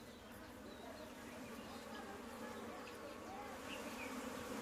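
Many honeybees buzzing together in a steady, continuous hum around an opened hive, growing slightly louder toward the end.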